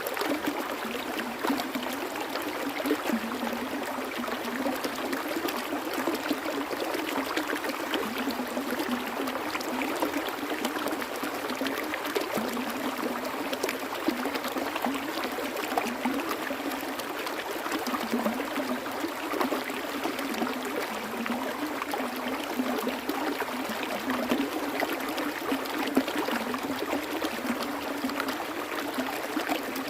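Flowing water, a small stream running and trickling steadily without letup.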